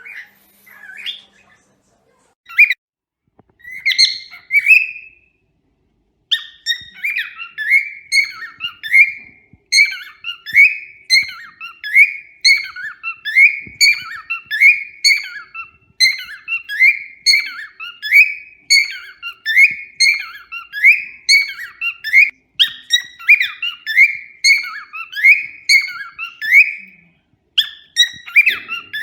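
Cockatiel chirping and whistling. There are a few separate calls at first, then from about six seconds in a fast, unbroken run of short rising chirps repeated over and over.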